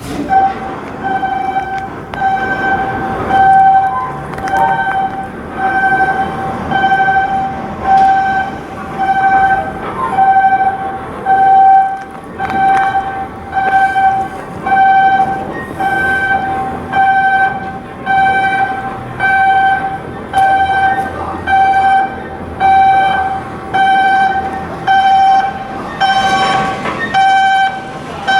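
Electronic warning beeper sounding one steady tone over and over, about one beep a second.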